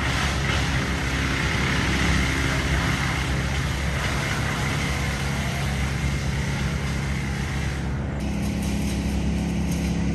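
City street traffic: a large vehicle's engine running close by with a steady low hum, under a hiss that cuts off suddenly about eight seconds in, after which the engine's hum shifts.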